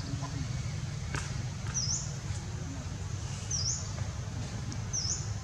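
A bird repeating a short, high chirp that dips and then rises, about every second and a half to two seconds, over a steady low rumble.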